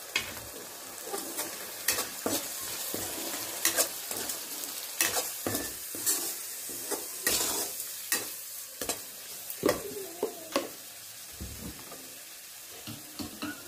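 Masala of ground spices, onion and ginger-garlic paste sizzling in hot oil in a kadai, while a perforated steel spoon stirs it, scraping and knocking against the pan at irregular moments.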